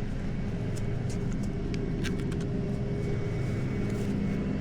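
Tow truck engine running steadily at a low, even hum.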